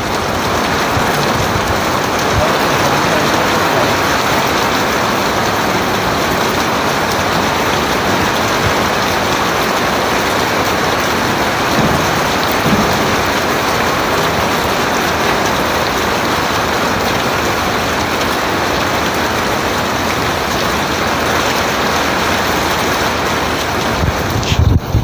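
Heavy rain falling steadily, a loud even hiss, with a few brief knocks near the end.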